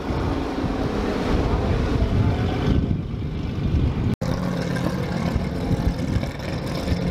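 Car engines running, a continuous rumble with steady engine tones. It breaks off abruptly about four seconds in, then resumes with a steadier low hum.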